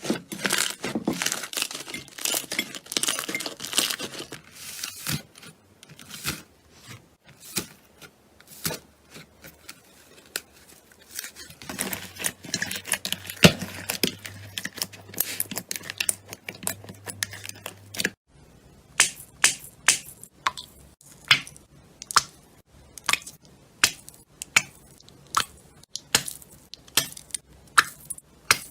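Slime being pressed and squished by hand, giving crackling clicks and small pops. Partway through it changes to sharp, evenly spaced pops, roughly one to two a second.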